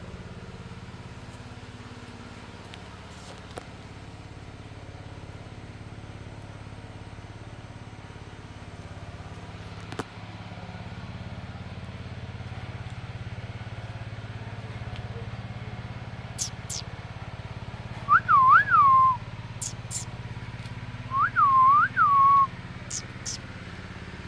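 A whistled call of two quick rise-and-fall notes, repeated twice about three seconds apart in the second half. Pairs of short, very high ticks come between the calls, and a steady low hum runs beneath.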